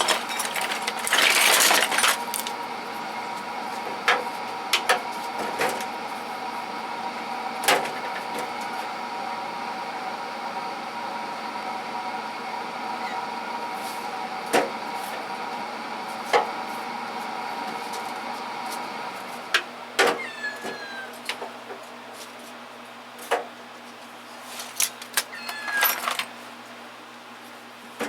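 Tools being handled and set into metal toolbox drawers: scattered clicks, clanks and a longer rattle about a second in, over a steady background hum.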